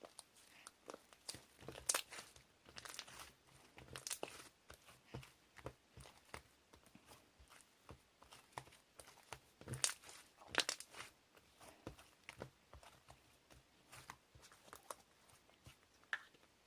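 Irregular close-up rustling and crinkling with sharp clicks, the loudest about two seconds in and again near ten seconds.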